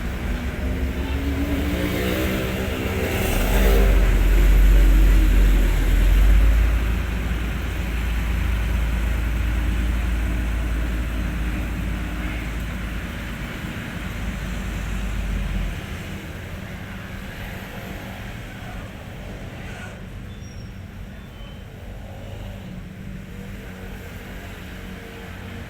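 Hino 500 truck's diesel engine running: a low rumble that swells about four to six seconds in, with a pitch that sweeps down, then eases and drops to a quieter steady rumble about sixteen seconds in.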